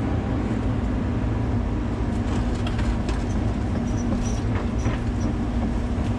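Volvo 140 excavator's diesel engine running steadily, with a run of clicks and knocks in the middle and a few brief high squeaks.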